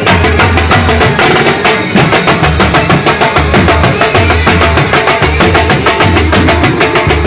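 Banjo-party band playing a Hindi film song tune, the banjo lead over a steady, fast drum beat with regular deep bass pulses.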